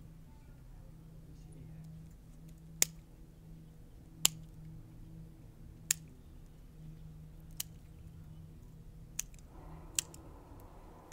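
Sharp single snips of bonsai cutting shears, about seven cuts spaced a second or more apart, over a low steady hum.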